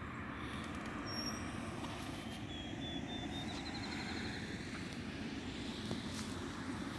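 Steady low background rumble, with a small bird's faint high chirps and a short trill about two to four seconds in.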